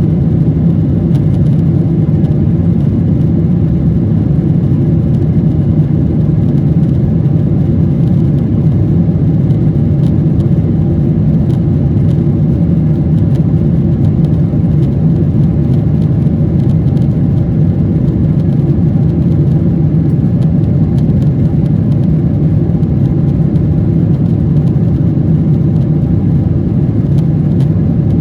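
Aircraft engines droning, a loud low rumble that holds perfectly steady with no rise or fall.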